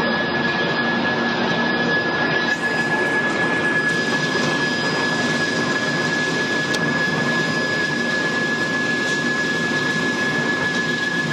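Wood pellet production line machinery running steadily, a dense mechanical noise with a constant high-pitched whine over it.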